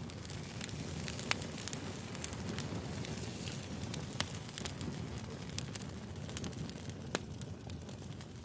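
Burning firewood crackling, with a steady low hiss of flame and frequent irregular sharp pops, a few louder snaps among them.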